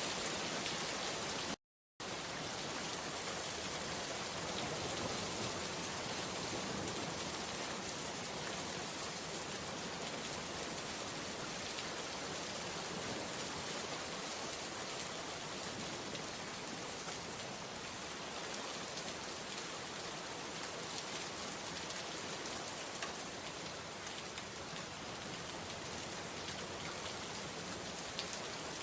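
Steady rain falling, a dense even hiss with fine drop ticks through it. It cuts out to total silence for a split second about two seconds in, then resumes.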